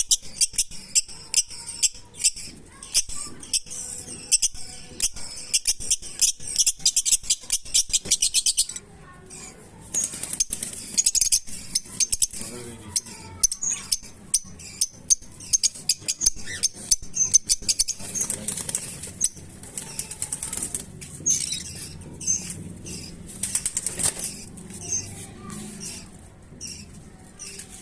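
Fischer's lovebirds chattering in rapid, high, sharp chirps, almost continuous for the first nine seconds, then in scattered bursts.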